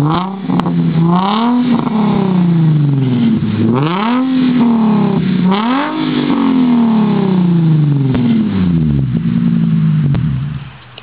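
Nissan 350Z V6 through a modified Invidia cat-back exhaust with resonated test pipes, revved about four times, each rev rising quickly and falling back. It then settles to a steady idle and the sound fades away near the end.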